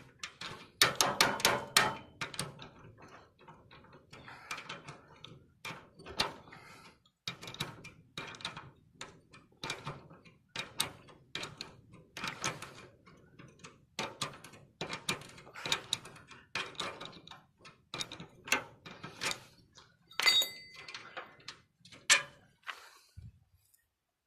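Irregular knocks and clanks of metal parts being worked by hand on a wheelbarrow under repair, one giving a short metallic ring about twenty seconds in.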